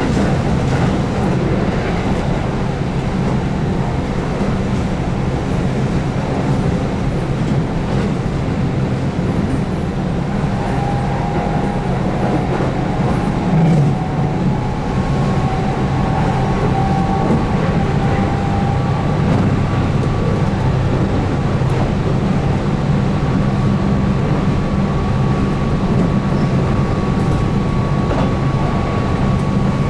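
Keihan 8000 series electric train running at speed, heard from on board: a steady rumble of wheels on rail. A faint whine from its DC traction motors under field-addition excitation control comes in partway through.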